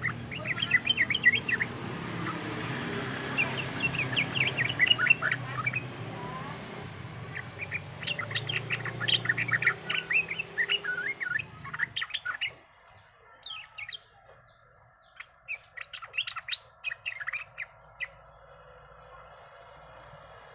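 Yellow-vented bulbul (trucukan) song used as a lure call: repeated bursts of quick, bubbly chattering notes. About twelve seconds in, a low background hum stops and the notes come sparser.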